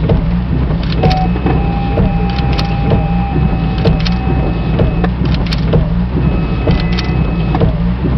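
Steady low rumble like a running vehicle, with faint steady tones and scattered clicks.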